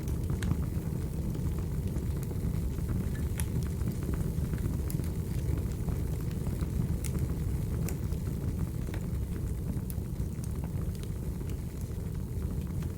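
Crackling wood fire: a steady low rumble with scattered sharp pops and snaps of burning logs.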